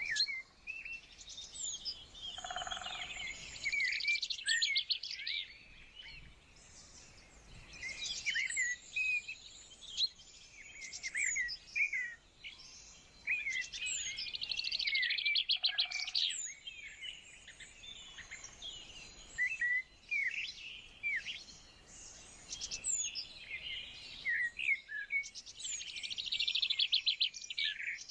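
Several songbirds singing together: a dense chorus of short chirps and whistled notes, with fast, loud trills about four seconds in, around the middle and near the end.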